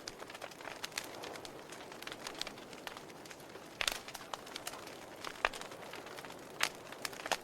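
Wood fire crackling in a fireplace: a soft steady hiss dotted with sharp crackles and a few louder pops.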